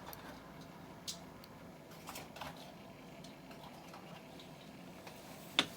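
A few faint clicks and taps from small diecast toy cars being handled over quiet room tone, with a sharper click near the end.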